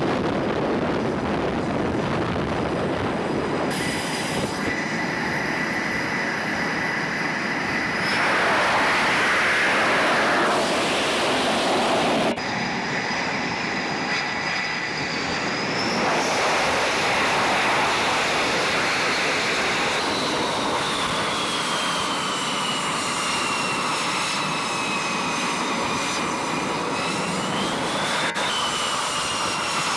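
Jet aircraft engines running with a rushing roar and a high turbine whine that slides up and down in pitch. The sound changes abruptly every few seconds, as one shot of the engines cuts to the next.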